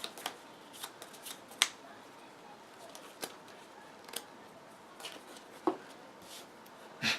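Trading cards being handled and set down on a table: an irregular scatter of light clicks and snaps, the sharpest about a second and a half in and another near the end.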